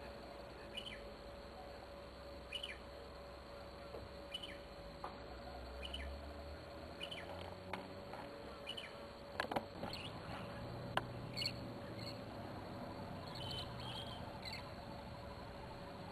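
A bird calling over and over, a short high chirp falling in pitch, repeated every second or two. A few sharp clicks about two-thirds of the way through are the loudest sounds, over a faint steady hum.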